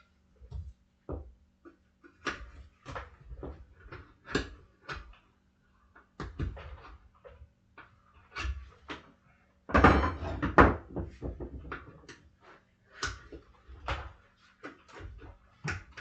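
Steel tire irons knocking and scraping against a dirt bike rim while a front tire is pried off it: irregular clicks and clunks, with a louder clatter about ten seconds in.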